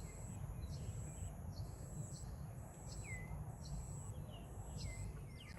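Outdoor jungle ambience: birds giving short, downward-sweeping chirps while an insect buzzes high in regular pulses about once a second, over a steady low rumble.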